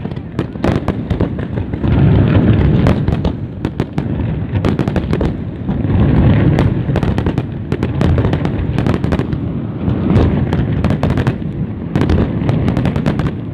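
Fireworks display: many sharp bangs and crackles in quick succession over a continuous deep booming rumble from the bursting shells.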